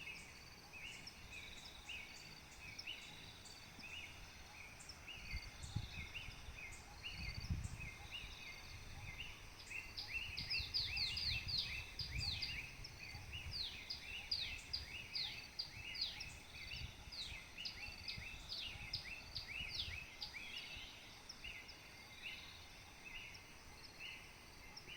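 Wild birds chirping in forest: a steady run of short, repeated chirps all through. From about ten seconds in to about twenty, a second bird joins with quick, falling notes.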